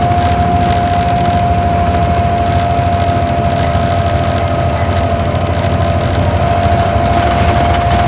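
Isuzu Gala coach's V-type diesel engine running steadily under way, heard from inside the bus: a low, even rumble with a steady high whine held above it.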